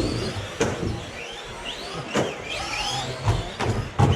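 Electric motors of radio-controlled racing trucks whining up and down in short revs, with several sharp knocks.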